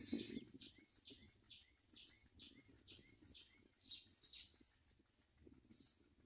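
Common mynas at the nest giving a steady run of short, high chirps, about three a second, each falling in pitch. A louder, scratchier sound is heard right at the start.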